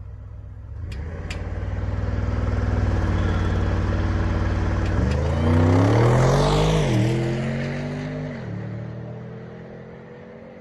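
Audi RS6 C8's twin-turbo V8 held at steady revs on launch control for about five seconds, then launching: the pitch climbs fast, dips briefly at an upshift about seven seconds in, and the sound fades as the car pulls away.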